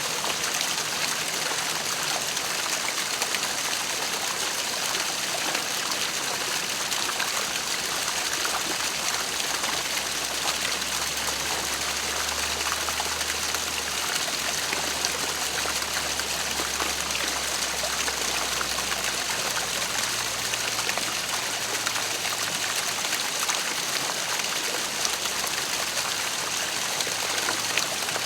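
Waterfall running: a steady, even rush of falling and splashing water.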